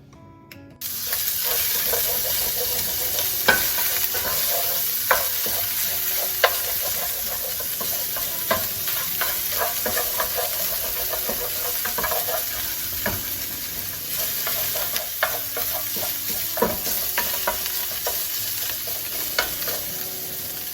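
Crumbled sausage meat frying in olive oil in a pan, sizzling steadily from about a second in, with a utensil knocking and scraping against the pan as the meat is stirred.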